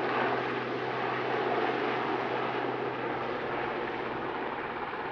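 Westland Sea King HAR.3 helicopter in flight, its twin turboshaft engines and rotor making a steady noise that eases off slightly.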